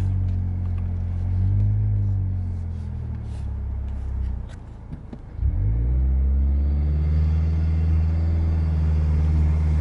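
Turbocharged 2.5-litre four-cylinder of a 2022 Mazda3 Turbo with an aftermarket CorkSport intake and exhaust, driving. It eases off and drops away briefly about halfway through, then picks up sharply and holds a steady low drone under load, having been pulled away in too high a gear.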